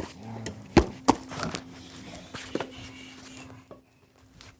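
Wooden sticks being handled for a campfire, giving a few sharp knocks and cracks. The loudest two come about a second in.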